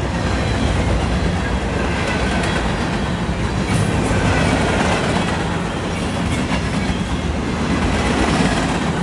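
Manifest freight train's cars rolling past close by: a steady, loud rumble and clatter of steel wheels on the rails.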